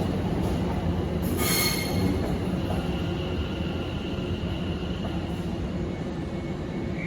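Passenger train moving slowly through the station: a steady low rumble of wheels on rails, with a brief high screech about a second and a half in and a thin, high wheel squeal that fades away.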